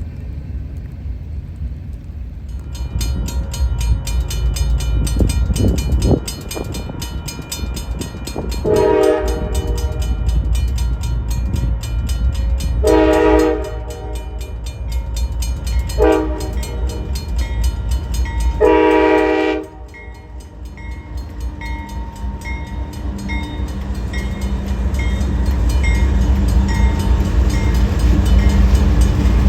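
Diesel freight locomotive sounding its horn in the grade-crossing pattern of long, long, short, long, over a steady rumble. Afterwards a bell rings steadily while the train's rumble grows louder as it approaches.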